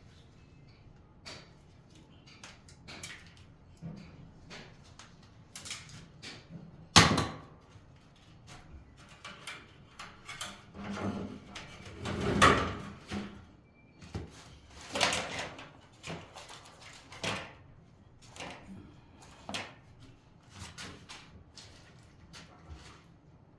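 Intermittent knocks, clicks and scraping sounds of objects being handled, with one sharp knock about seven seconds in.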